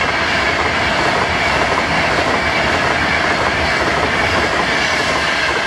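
A Virgin Trains express passenger train passing at speed close by: a loud, steady rush of wheel and air noise.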